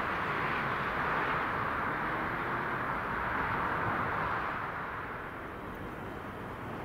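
Rolling noise of a passing train, a steady rush that eases off about two-thirds of the way through as the train moves away.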